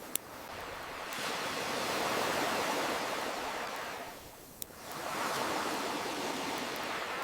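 Ocean waves washing in and out, swelling then ebbing to a lull about halfway through before the next wave builds, with two sharp pops from a crackling campfire, one at the start and one in the lull.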